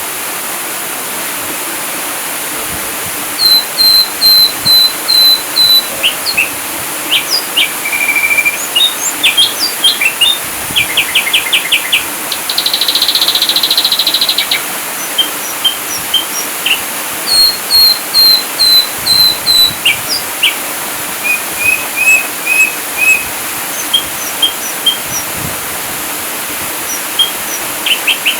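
Ashy drongo song: loud series of short repeated whistled notes, upslurred whistles, a rapid clicking run and a buzzy trill, starting a few seconds in, over a steady hiss of running water.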